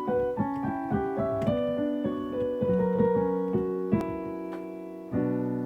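Solo piano introduction to a song: a melody of single struck notes and small chords, about three or four a second, each fading. A fuller, lower chord is struck about five seconds in and held ringing.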